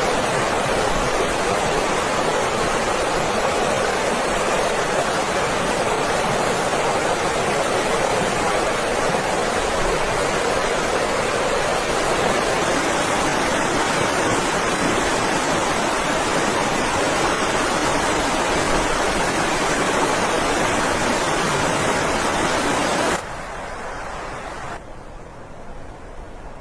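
Blizzard wind blowing as a steady, loud rushing noise. It cuts off abruptly near the end to a much quieter hiss.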